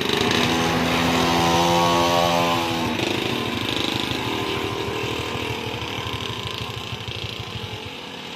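Two-stroke mini trail dirt bike engine running under throttle as it pulls away, loudest in the first three seconds. It then fades steadily as the bike rides off.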